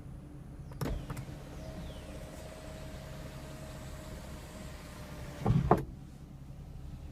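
2014 Toyota Camry XLE's power moonroof motor running steadily for about five seconds, starting with a click about a second in and stopping with a loud thunk near the end as the roof panel reaches its stop.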